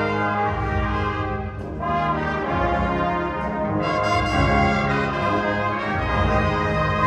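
High school winter winds ensemble playing held brass chords, the harmony shifting about two seconds in and again near four seconds.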